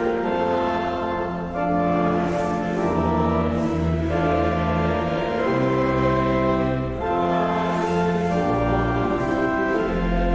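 Hymn music played in church: slow, sustained chords over a deep bass line, the chord changing every second or so.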